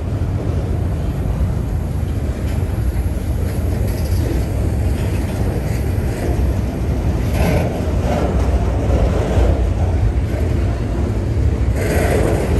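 CSX freight train rolling past at close range: a steady low rumble, with two brief louder surges of metallic rattle about seven and a half and twelve seconds in.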